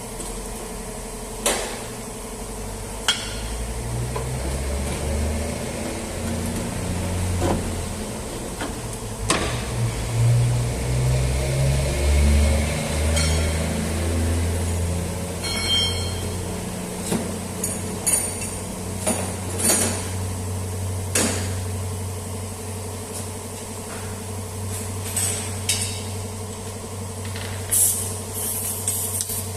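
Scattered sharp metal clanks and knocks from a pry bar and tools working a car's front suspension ball joint loose, over a steady low drone.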